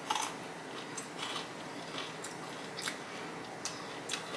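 Close-miked chewing of crispy Flamin' Hot Cheeto-coated fried chicken, with sharp, irregular crunches roughly every half second.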